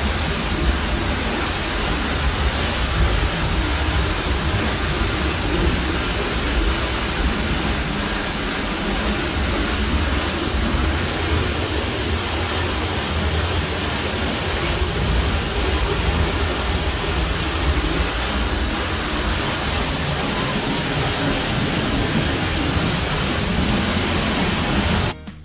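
Waterfall at Edessa: falling water making a steady, even rush that cuts off suddenly just before the end.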